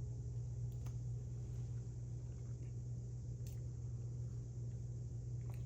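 Quiet room tone: a steady low hum with a couple of faint clicks.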